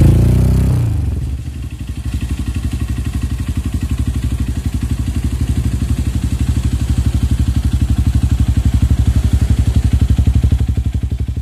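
Honda CRF150L's single-cylinder four-stroke engine through a Norifumi Torc aftermarket exhaust: a rev dies away over the first second or so, then the engine idles with an even, rapid putter.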